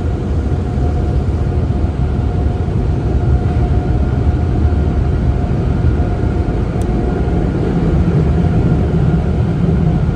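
Automatic car wash machinery running steadily: a constant low rumble with a steady whine over it.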